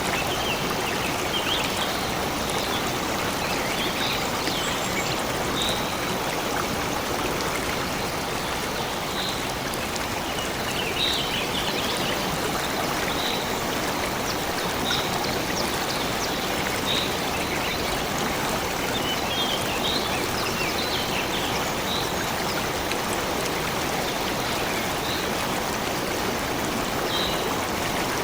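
A stream of water running steadily, with short bird chirps repeating every second or two over it.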